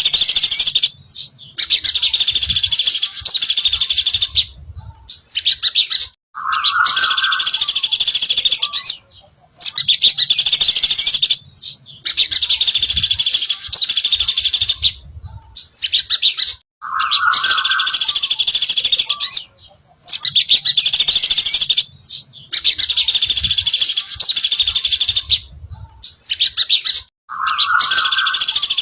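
Sogon dasi trotol bird singing: rapid, high-pitched chattering phrases of two to three seconds each, broken by short pauses, with a short lower note slipped in about every ten seconds.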